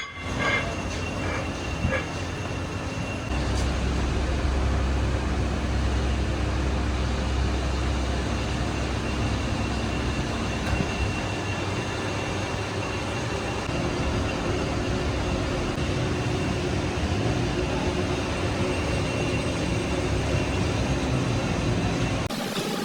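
A machine running steadily: a continuous mechanical noise with a low hum, a little louder from about three seconds in.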